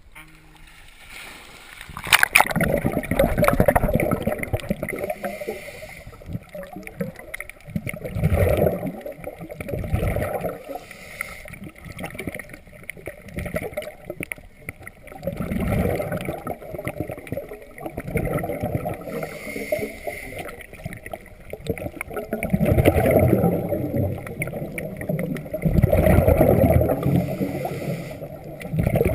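A splash about two seconds in as a scuba diver enters the water, then muffled gurgling and bubbling water that swells and fades every few seconds.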